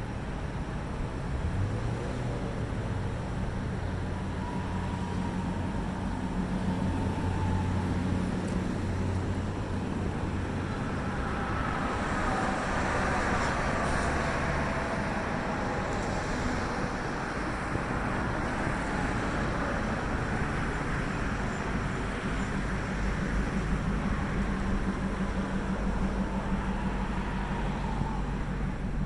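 Motor vehicle noise: a steady low engine hum, with a vehicle passing through the middle, its engine and tyre noise swelling and then fading.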